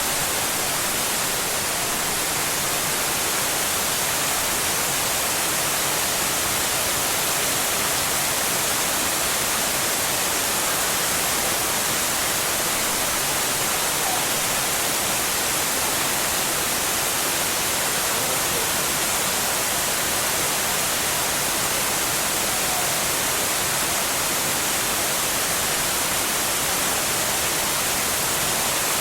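Waterfall: a steady, unbroken rush of falling water with a hissy top.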